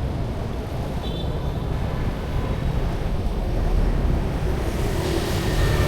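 Street traffic ambience: a steady low rumble, swelling as a vehicle passes near the end.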